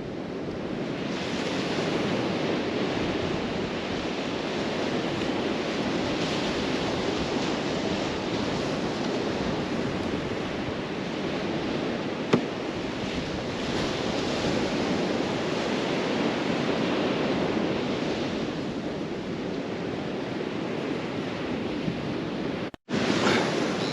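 Surf washing onto a beach with wind on the microphone, a steady rushing noise, with one sharp click about halfway through.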